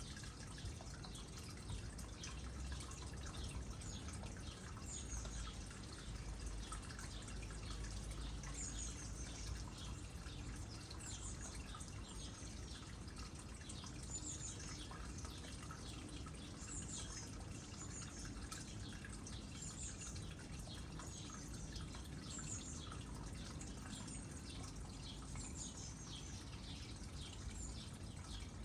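Water trickling and dripping into a small pond, a steady fine patter of drops. Short high chirps repeat every second or two over it from a small bird.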